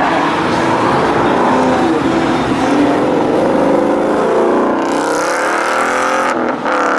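A car engine accelerating hard as the car pulls away, its pitch climbing steadily over several seconds.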